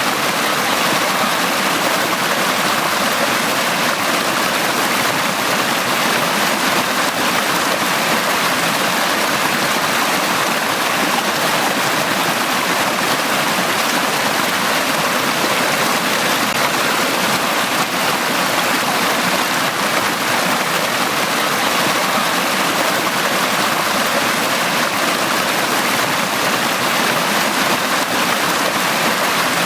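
Forest stream running: a steady, even rush and babble of flowing water.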